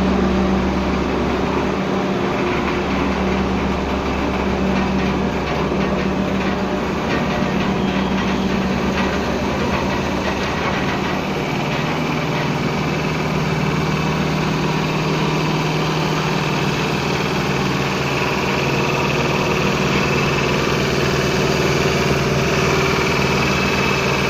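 Large truck engine running steadily with a low drone; its tone shifts slightly about halfway.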